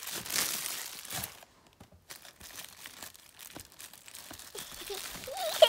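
Clear plastic packaging crinkling as it is handled, loudest in the first second. It breaks off briefly, then comes back as faint scattered rustles and clicks.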